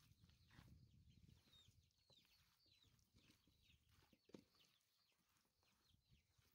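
Near silence, with faint, short, high bird chirps repeating throughout. There is soft low handling noise in the first second as hands rub seasoning into raw chicken pieces on a metal tray, and one small tick about four seconds in.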